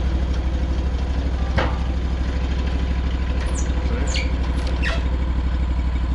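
Sawmill engine idling steadily with a fast even pulse. A single knock comes about a second and a half in, and a few short high squeaks come around the middle.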